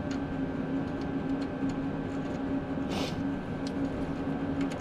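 A steady mechanical hum at one constant pitch, with a few light clicks and a short scraping noise about three seconds in.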